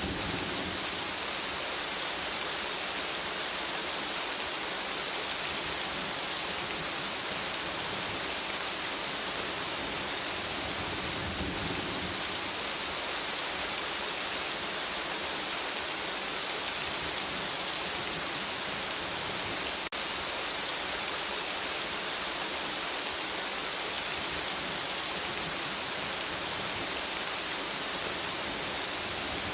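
Steady rain falling on forest foliage: a dense, even hiss of countless drops that holds at the same level throughout.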